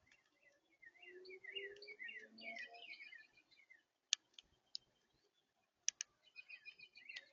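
Small birds at a feeder chirping in quick runs of short notes, pausing about halfway and starting again near the end. A few sharp clicks sound in the pause.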